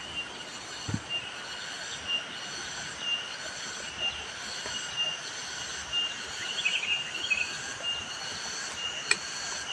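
Forest insects droning with steady high-pitched tones, with a short high note repeating about once a second.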